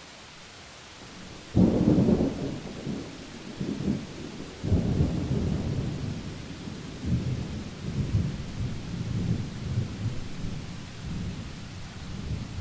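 A thunderclap over steady rain hiss: a sudden sharp crack about a second and a half in, a second strong peal a few seconds later, then thunder rolling and rumbling low until it dies away near the end.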